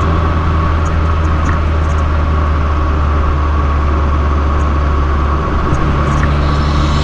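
Fiat 500 Abarth's turbocharged 1.4-litre four-cylinder running through an MPx cat-back exhaust while driving, a loud, steady low drone. About five and a half seconds in the note changes, and it grows brighter near the end as the engine builds again.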